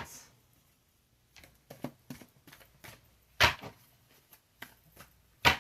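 Tarot cards being handled: a run of light clicks and taps, with two louder slaps, one about three and a half seconds in and one near the end.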